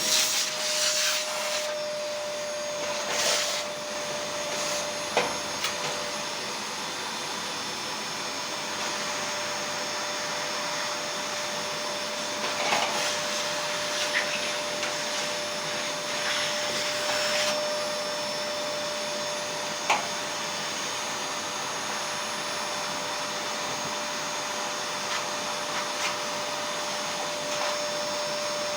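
A motor-driven blower, such as a vacuum cleaner or the dryer's own fan, running with a steady airy whirr and a constant hum. Now and then come a few short knocks and brief scraping sounds.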